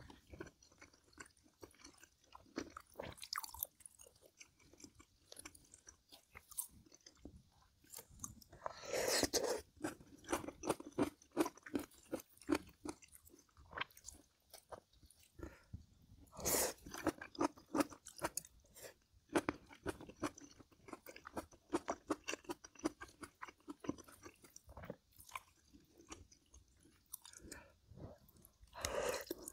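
Close-miked chewing and wet mouth sounds of someone eating, a steady run of small smacks and crunches, with louder bursts about nine and sixteen seconds in.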